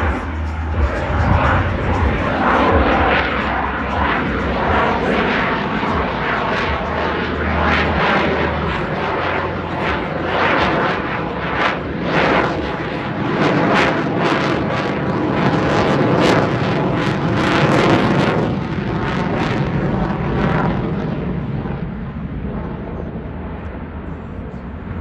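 F-22 Raptor's twin Pratt & Whitney F119 turbofans in a loud, continuous jet pass that pulses in strength. Near the end it grows duller and fades as the jet moves away.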